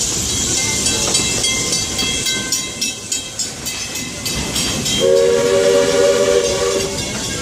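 Steam train running on its rails with scattered clicking, then one whistle blast about five seconds in that holds steady for about two seconds and is the loudest sound.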